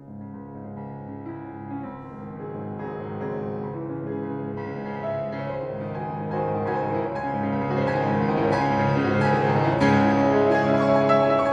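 Calm instrumental piano music that swells, growing steadily louder and fuller.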